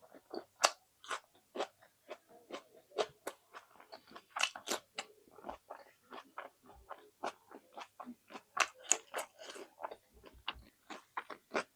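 Close-miked chewing of egg and rice: wet mouth smacks and small crunches come irregularly, several a second.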